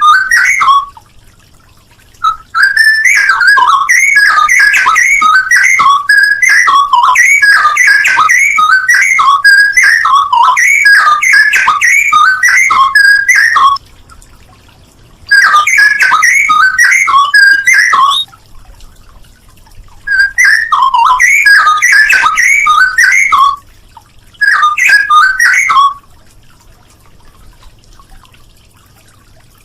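Straw-headed bulbul (cucak rowo) singing loud, rapid, fluty warbling phrases in bursts: one long run of about eleven seconds, then three shorter runs with short pauses between, falling quiet about 26 seconds in.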